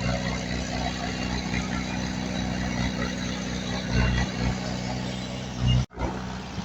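Diesel engine of heavy earthmoving machinery running steadily with a low drone. Near the end it cuts out for a split second, then resumes.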